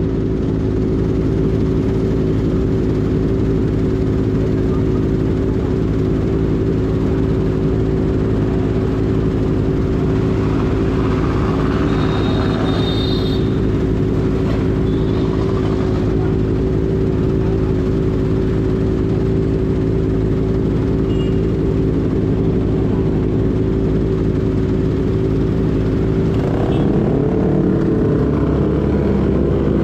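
Kawasaki ZX6R inline-four running steadily at idle through an unbaffled M4 GP19 slip-on exhaust. Near the end the revs rise and keep climbing as the bike pulls away.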